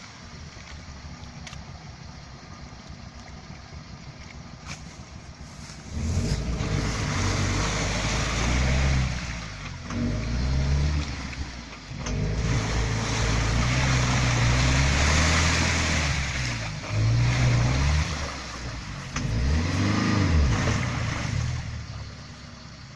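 UAZ off-road vehicle's engine ticking over quietly. About six seconds in it begins revving hard in repeated bursts that rise and fall for some fifteen seconds, then it drops back to a low run near the end.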